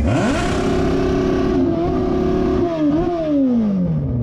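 Motorcycle engine revving up sharply and holding high revs for about two seconds, then a quick blip of the throttle and the revs falling away steadily near the end.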